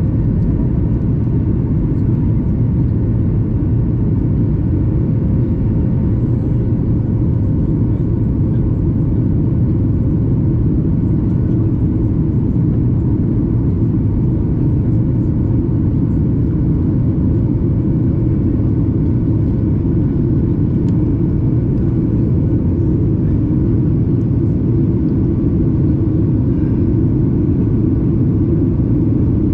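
Steady cabin noise of a Boeing 737 MAX 8 in flight: the CFM LEAP-1B turbofans and rushing airflow make an even, loud low rumble, with a faint steady hum above it.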